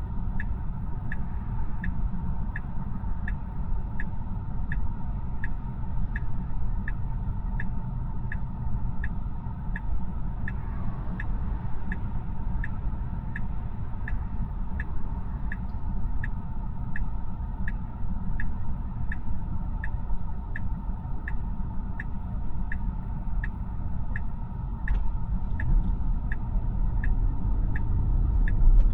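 Tesla's cabin road noise, a steady low rumble, with a turn-signal indicator ticking evenly about twice a second. The rumble grows louder near the end as the car speeds up.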